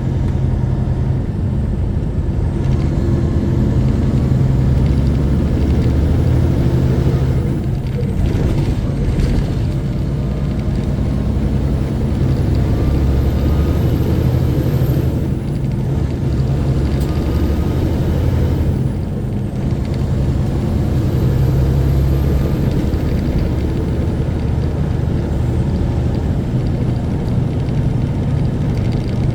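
Semi truck's diesel engine running under way, heard from the cab as a loud, steady low rumble. The rumble dips briefly a few times.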